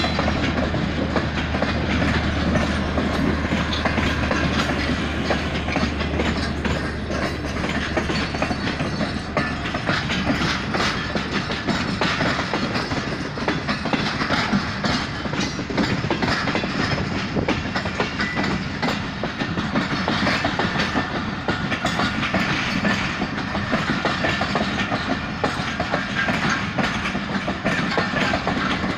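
Awam Express passenger coaches passing close by: a steady rumble of steel wheels on the rails with rapid clickety-clack over the rail joints. A low hum underneath fades out about a third of the way in.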